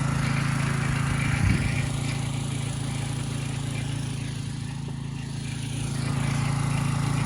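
A motor running steadily with an even, low drone, with a brief knock about one and a half seconds in.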